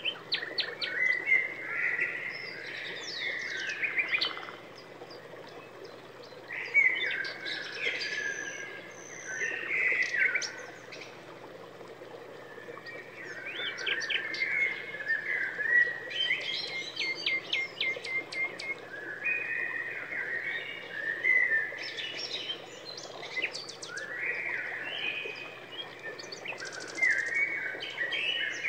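A songbird singing: varied phrases of chirps and quick trills, broken by short pauses of a second or two.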